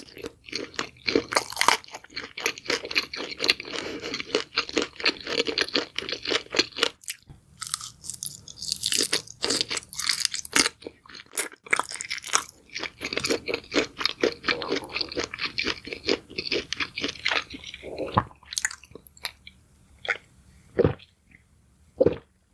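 Close-up crunchy chewing: rapid, dense crunches of something brittle being bitten and chewed, with brief pauses about 7 and 11 seconds in, thinning out to a few scattered chews near the end.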